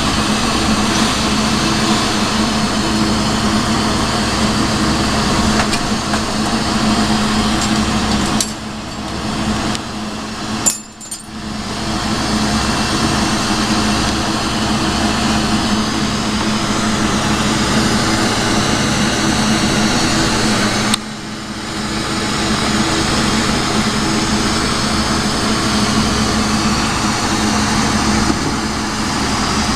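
Cordless drill motor running steadily as it spins a glass rod to pull latticino stringers, over the steady hiss of a glassworking torch. The sound dips briefly about a third of the way in, almost drops out just after, and dips again around two-thirds of the way through.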